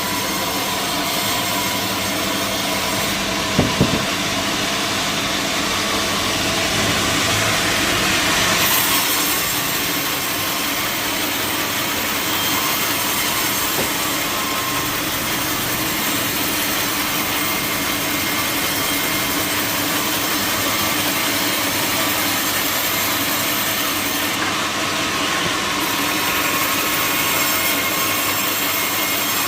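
Sawmill saw running steadily through a teak log, with two short sharp knocks about four seconds in.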